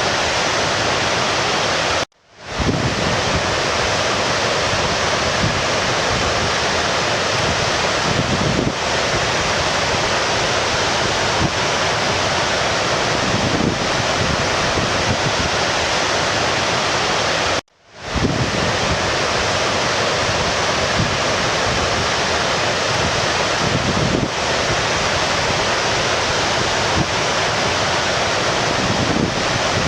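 Steady rushing of a stream's flowing water. It cuts out abruptly twice and fades back in, at the seams of a looped recording.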